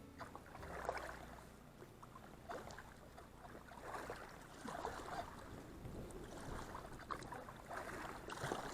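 Kayak paddle dipping and splashing in the river water, stroke after stroke, a splash roughly every second.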